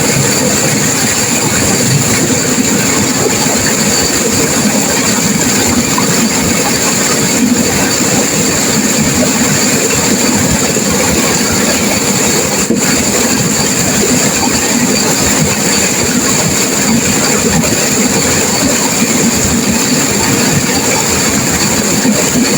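Turbulent river water crashing and rushing, loud and steady.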